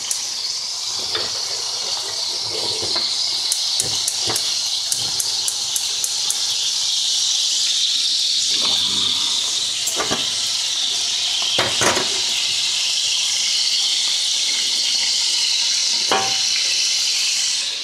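Water running steadily from a kitchen tap, shut off sharply near the end, with a few knocks of pans or utensils being handled.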